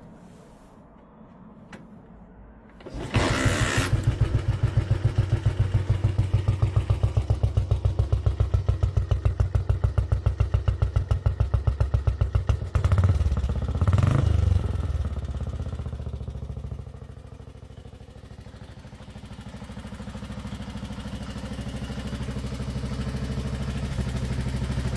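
Velocette MAC single-cylinder motorcycle engine starting up about three seconds in and running with a fast, even thumping beat. A short burst of revs comes around the middle, then the sound drops away and slowly builds again toward the end.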